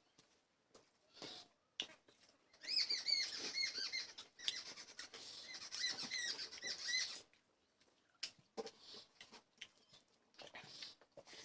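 Close-up eating sounds: wet chewing and lip smacks as short scattered clicks. For about four seconds in the middle there is a dense run of rapid, high squeaky chirps.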